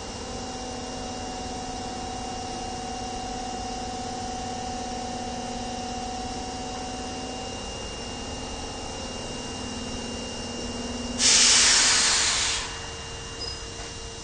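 Osaka Metro 22 series subway train standing at the platform with a steady equipment hum. About eleven seconds in comes a loud hiss of compressed air lasting about a second and a half, then the hum goes on.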